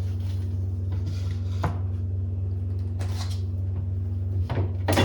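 Food containers being handled and set down while a refrigerator is rearranged: a few scattered knocks and clatters, more of them near the end, over a steady low hum.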